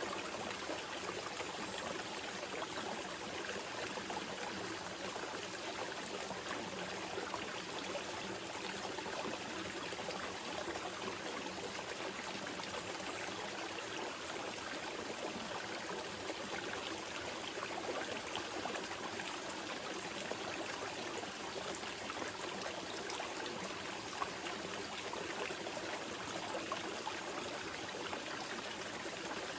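Small mountain river flowing steadily over stones, a constant even rush with fine trickling and splashing detail.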